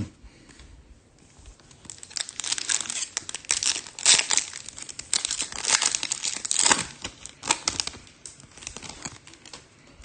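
A short thump at the start, then a foil trading-card pack wrapper being torn open and crinkled in the hands for several seconds, in dense irregular crackles.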